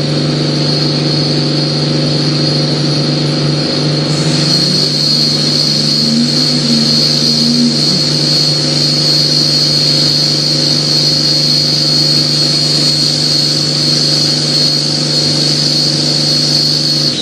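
1993 Dodge Ram 350 pickup doing a burnout: the engine is held at steady high revs with the rear tyres spinning, and a steady high-pitched squeal rides over the engine.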